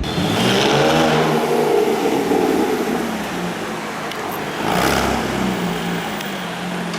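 Sports car engine revving: its note rises and falls in the first couple of seconds, runs on steadily, then swells again about five seconds in.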